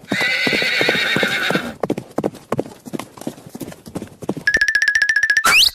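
A horse whinnying, then hooves clip-clopping in a quick run of hoof beats. Near the end come a high, rapidly pulsing beep and quick rising whistles.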